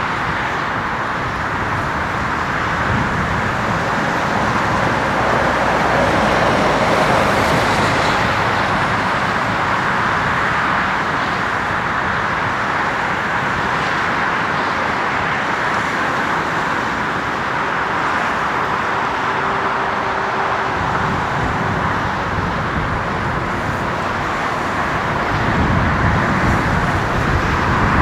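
Steady jet engine noise of a Boeing 787-9 Dreamliner, a rushing roar that swells a little twice.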